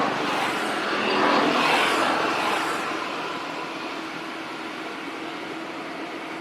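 A vehicle passing by: its noise swells and fades over about three seconds, over a steady background hum.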